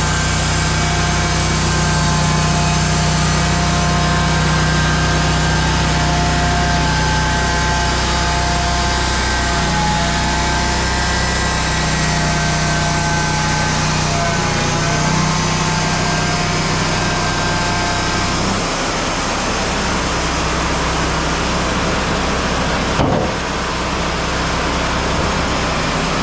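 Engine running steadily with a low hum, and a high steady whine over it that fades out about eighteen seconds in. There is a single sharp click near the end.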